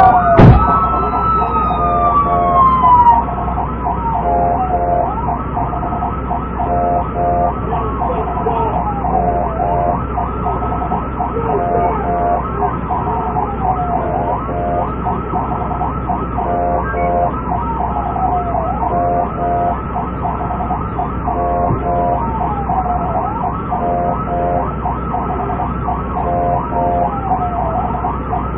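Police siren wailing in slow rise-and-fall sweeps, about one every four and a half seconds, over a second, pulsing siren tone and a steady low hum.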